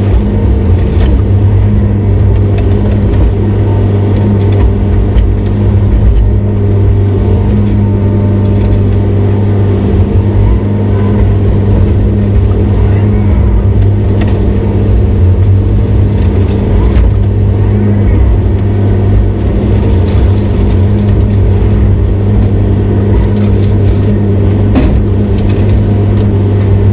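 Heavy-equipment diesel engine running at a steady, even drone, with scattered short knocks and clanks from the work.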